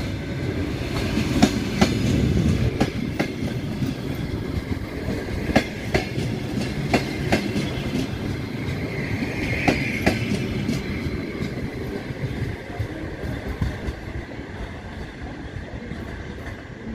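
Passenger coaches of a departing train rolling past, their wheels clicking irregularly over rail joints over a low rumble, fading away as the last car pulls off into the distance.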